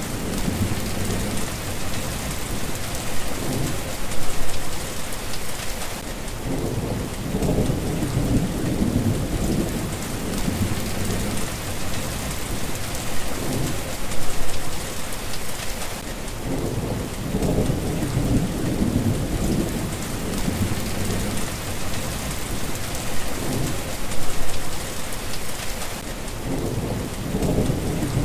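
Steady rain falling, with low rumbles of thunder that swell and fade about every ten seconds.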